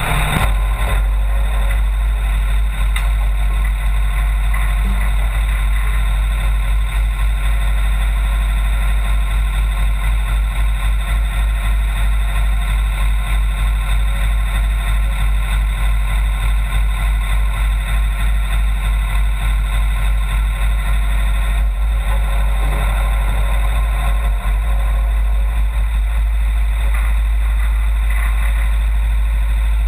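Brush truck engine idling steadily, a deep continuous rumble with a regular pulsing throb.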